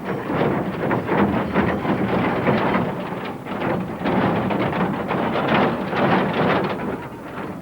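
Small narrow-gauge steam locomotive working: a rough hiss of steam and exhaust with irregular chuffs, swelling and falling.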